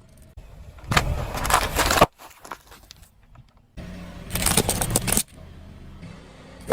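Car tyre rolling over and crushing objects: two bursts of crunching and crackling, each about a second long and each cut off abruptly, with a low rumble under them.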